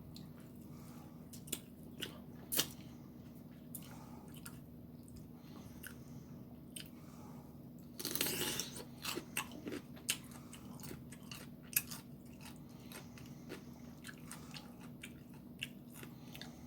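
Close-miked chewing and biting of food, with soft wet mouth clicks scattered throughout and a louder, noisier crunch about eight seconds in, over a faint steady hum.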